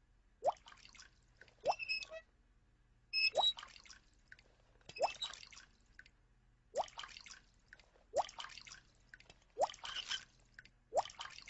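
Leaky faucet dripping in a cartoon: a slow, regular run of water drops, about one every one and a half seconds, each a short plink rising in pitch.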